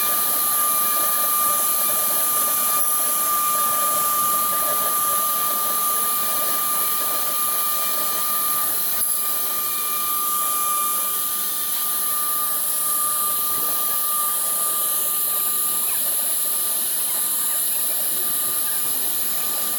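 Single-head woodworking CNC router engraving MDF: a steady high spindle whine over a continuous hiss of the bit cutting.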